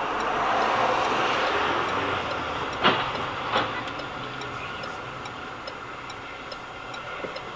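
Steady rushing noise of a vehicle on the move, with two sharp knocks about three seconds in, under a second apart, and a faint regular ticking.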